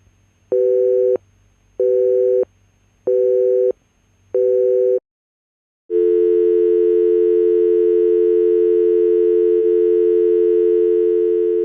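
Telephone-style two-tone signal: five even beeps, each about half a second long with equal gaps, then a short silence, then the same tone held continuously.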